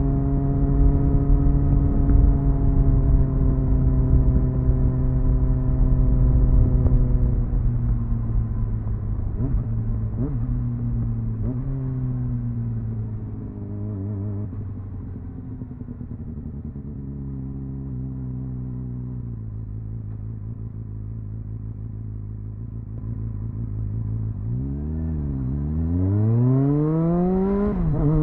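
Triumph Speed Four's 599 cc inline-four engine on its stock exhaust, heard onboard. The engine note falls gradually as the bike slows, with a couple of short throttle blips around ten to twelve seconds in. It then runs low and steady before revving hard up through two gear changes near the end.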